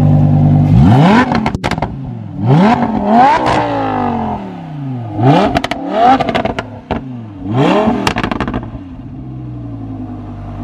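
Lamborghini Huracan LP580-2's V10 through an ARMYTRIX titanium exhaust, revved in about six quick throttle blips from idle. The revs climb sharply and fall back each time, with crackles on the way down, and the engine settles back to idle near the end.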